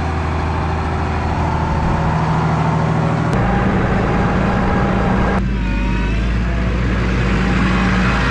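Motor vehicle engine running steadily with a low, even hum; its sound changes abruptly twice, about three and five seconds in.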